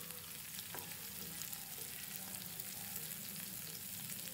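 Sliced onions, green chillies and curry leaves frying in hot oil in a nonstick pan, a steady soft sizzle, with a wooden spatula stirring through them.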